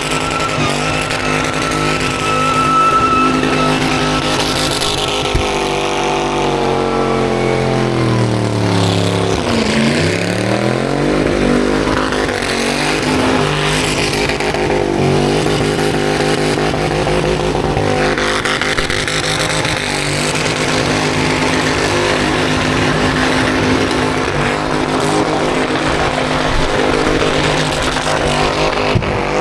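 Burnout car engines running hard on the skid pad with tyre noise; one engine's pitch drops steeply about seven seconds in and climbs back up around ten seconds, while a steady engine note carries on underneath.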